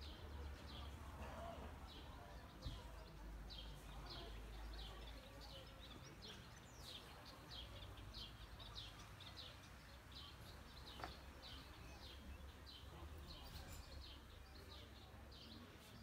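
Small birds chirping: short, high, downward-sliding chirps repeated one or two a second, faint, over a steady low rumble.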